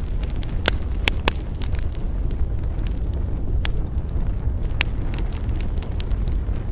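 Wood campfire burning: a steady low rumble of flame with sharp crackles and pops of burning wood, the loudest few about a second in and then at irregular gaps of a second or more.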